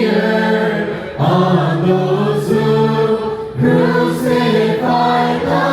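Church choir singing a slow liturgical chant in long held notes, a new phrase beginning about a second in and another about three and a half seconds in.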